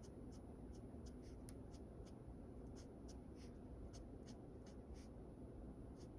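Faint, quick strokes of a drawing tool scratching on paper during sketching, about three to four strokes a second.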